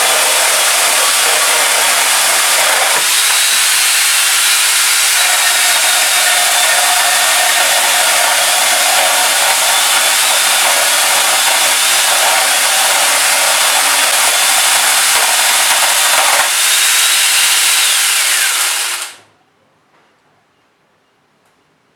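Angle grinder fitted with a chainsaw attachment running and sawing wood, a steady high-pitched motor whine over loud chain noise. It is switched off about three seconds before the end, the whine dropping briefly as the sound cuts out.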